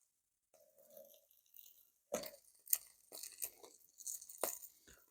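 Wood campfire crackling, with a run of sharp irregular pops and snaps from about two seconds in.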